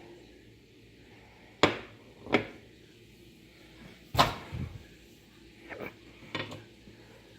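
A series of separate knocks and clunks from kitchen things being handled, about six in all, the loudest about four seconds in.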